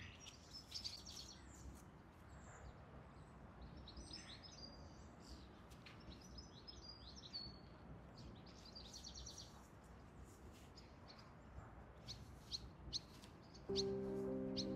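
Small birds chirping and singing faintly, with a few soft clicks now and then. Gentle background music comes in about a second before the end.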